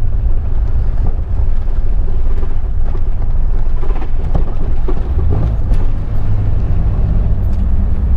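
A 1996 Jeep Grand Cherokee ZJ's 4.0-litre straight-six running at low revs under way, with road noise, heard from inside the cabin. The engine is losing power, which the owner puts down to fuel starvation.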